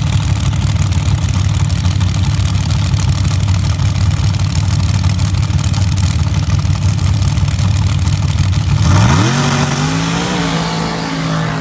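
Sand drag race vehicle's engine running with a loud, steady low rumble, then revving up about nine seconds in, its pitch climbing steeply and then holding.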